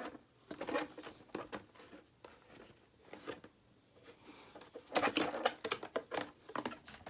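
Plastic clicking and crackling as the snap-on body shell of a toy RC drift car is pried off its chassis, with a busy cluster of clicks about five seconds in.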